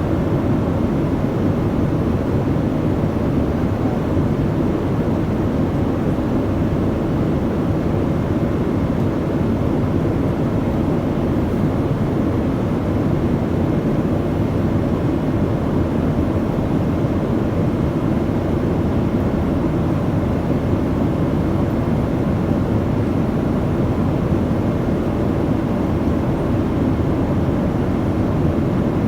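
Airliner cabin noise in flight: a steady low rumble of engines and rushing air, heard from inside the cabin, unchanging throughout.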